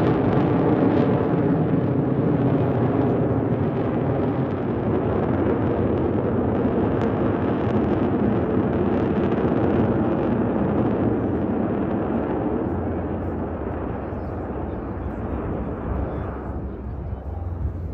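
Jet engine noise from Blue Angels F/A-18 Super Hornets in a low pass, loud and steady, then fading over the last few seconds as the jets move away.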